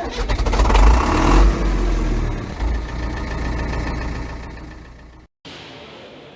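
An engine running with a heavy low rumble, loud at first and easing off, then cut off abruptly about five seconds in.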